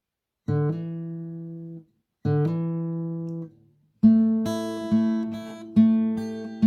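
Background acoustic guitar music: two single ringing notes, then steady rhythmic strumming starting about four seconds in.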